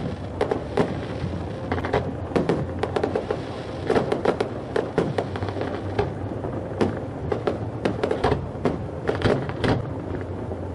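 Aerial firework shells bursting in a dense, irregular run of sharp bangs, one after another with no break.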